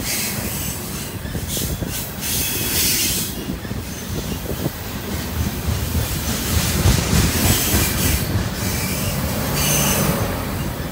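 Freight train of refrigerated boxcars rolling past close by: a steady rumble and rattle of steel wheels on the rails, with high wheel squeals that come and go.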